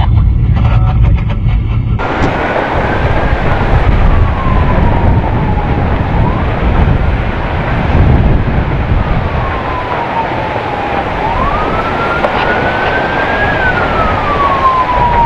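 Emergency vehicle siren wailing, slowly rising and falling in pitch in cycles of a few seconds, over a loud rushing noise. It begins abruptly about two seconds in, after a low rumble.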